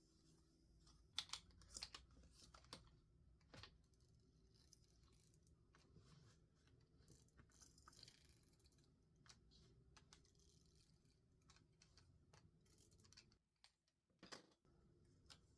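Quiet stationery handling on a desk: scattered light clicks and taps, loudest in the first few seconds and again near the end, with a soft rustle of paper or sticker sheet midway.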